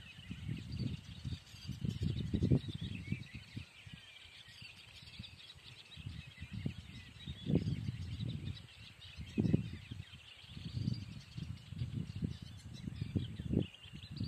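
Many birds chirping and calling steadily. Irregular bursts of low rumble come and go underneath and are the loudest part.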